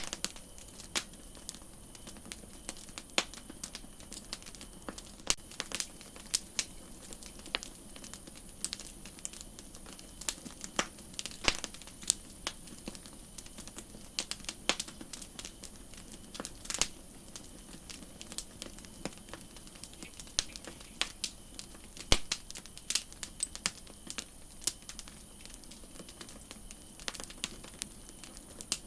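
Campfire crackling: burning wood snapping and popping at irregular intervals over a steady hiss, with one sharper pop about 22 seconds in.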